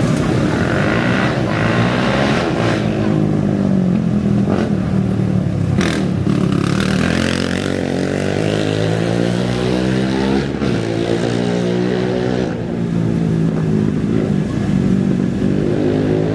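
Several off-road race vehicle engines idling and revving together, their pitch rising and falling and overlapping.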